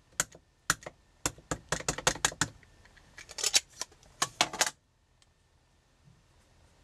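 Rubber stamp and ink pad being handled on a craft table: a quick, irregular run of sharp clicks and taps that stops about five seconds in.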